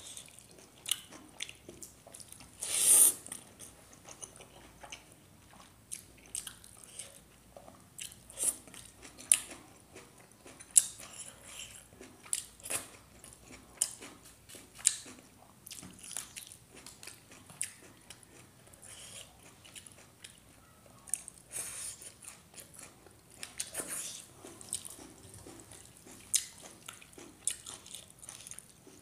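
Close-up eating sounds of a person eating rice and leafy saag by hand: chewing, lip smacks and wet squishes of the rice being mixed and scooped with the fingers, in irregular short clicks throughout. A louder, longer noisy burst comes about three seconds in.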